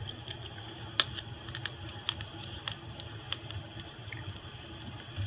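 Scattered light clicks and taps, a dozen or so at uneven spacing, the loudest about a second in: a small screwdriver and phone parts being handled while an iPhone SE is taken apart.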